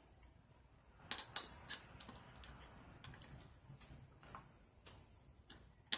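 A few faint, irregular small clicks and taps, the sharpest cluster about a second in and another just after three seconds.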